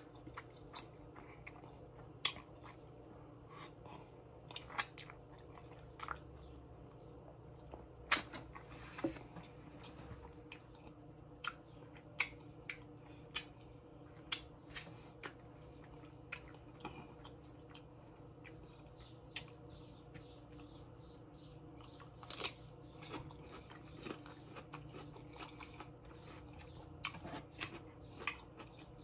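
A person chewing and biting baby back ribs close to the microphone: irregular sharp mouth clicks and smacks with pauses between them, over a faint steady hum.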